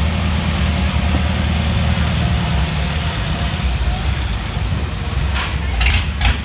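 An engine running steadily, a low rumble with road or water noise, broken by a few short sharp noises near the end.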